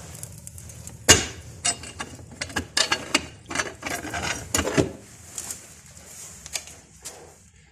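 Split firewood being loaded into the firebox of a brick cooking stove: a string of sharp knocks and clatters of wood on wood and brick, the loudest about a second in, thinning out after about five seconds.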